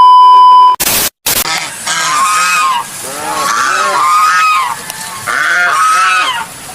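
A loud steady electronic beep for under a second, a brief burst of noise, then waterfowl honking in a series of loud, repeated calls.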